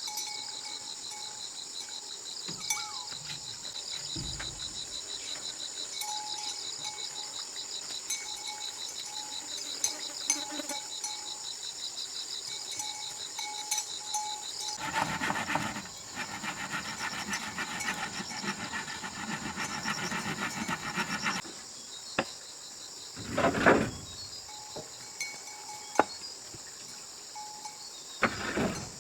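Insects chirping steadily in a high, fast-pulsing chorus. Midway there is a louder, rougher stretch of about six seconds, and there are a few sharp clicks and two short whooshes near the end.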